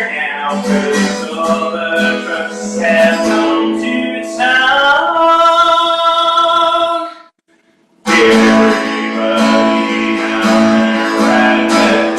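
Country-style song: strummed acoustic guitar with a male voice singing and a held note, breaking off to silence for under a second about seven seconds in before the music comes back.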